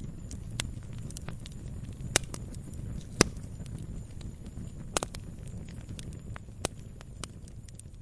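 Campfire crackling: irregular sharp pops and snaps, the loudest about two, three and five seconds in, over a steady low rumble of burning.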